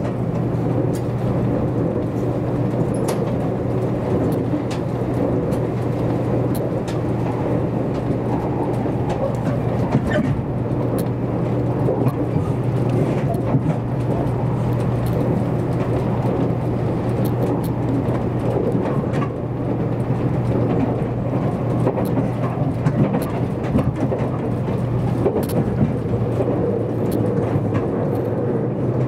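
Running noise heard inside the passenger cabin of a JR Kyushu 783 series electric limited express train at speed: a steady low rumble with faint ticks and clicks here and there.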